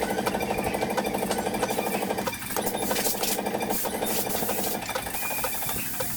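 A power tool running with a fast, even hammering pulse, starting abruptly, with a brief dip about two and a half seconds in.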